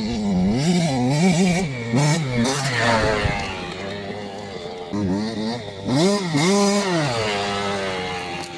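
KTM 85 SX two-stroke single-cylinder engine being revved in quick blips, its pitch rising and falling repeatedly. After a lull it revs up again twice around five and six seconds in, then drops back down.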